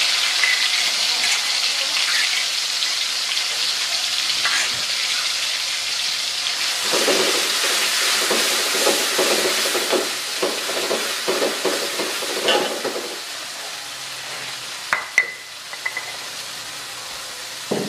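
Chopped chillies sizzling in hot oil in a metal wok, with a metal spatula stirring and scraping in quick strokes from about seven seconds in, for several seconds. The sizzle eases afterwards, and near the end the spatula gives a few sharp metallic taps against the wok.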